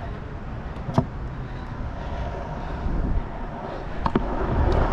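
Scooter wheels rolling on concrete with rumbling wind noise on an action camera, louder near the end, and two sharp clacks of scooter parts hitting, about one second in and again about four seconds in.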